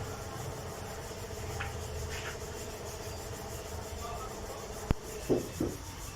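Steady rubbing or scraping from work on a car's rear door panel, with a sharp click about five seconds in and two knocks right after.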